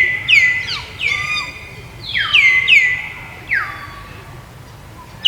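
A string of short, high animal calls, each sliding sharply downward and then levelling off, about nine of them in quick clusters with a pause near the end.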